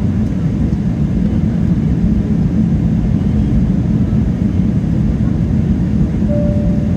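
Steady low rumble of a Boeing 777-300ER's GE90-115B engines and airflow, heard from inside the cabin.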